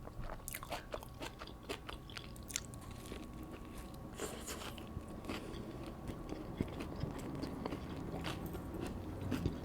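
Close-miked eating sounds of someone biting into and chewing a Subway sub sandwich, with many small crisp clicks and crunches.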